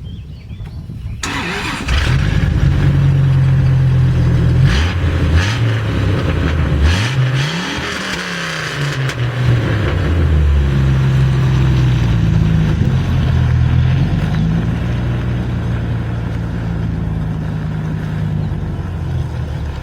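1994 Dodge Ram 2500's 8.0-litre V10, exhausting through two turndowns with no muffler, starting up about a second in, then revved a few times with its pitch rising and falling before it settles into a steadier loud run.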